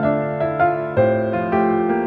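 Background music: a gentle piano melody with sustained chords, notes changing about every half second.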